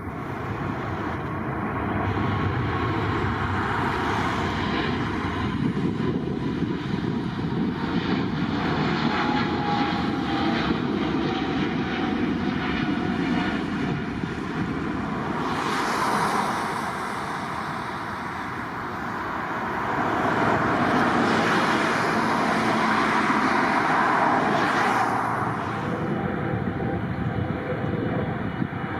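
Jet airliner engines running as an aircraft passes, a steady roar that swells, eases off slightly, then swells again near the end.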